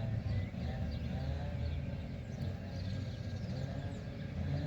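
Heavy machinery working nearby: a steady low engine drone with a wavering higher whine over it, and faint high chirps.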